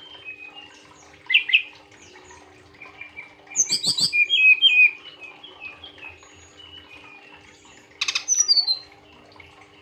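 Fulvous-chested jungle flycatcher singing in three loud bursts of quick, high, sliding notes, at about a second in, around the middle and near the end, with fainter chirps between and a faint steady hum underneath.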